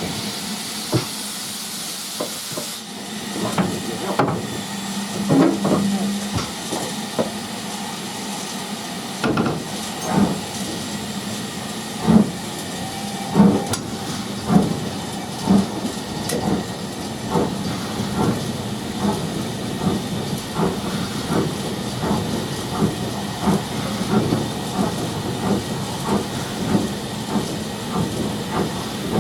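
Steam train running: a hiss of steam in the first few seconds, then a steady run of knocks, a little faster than one a second.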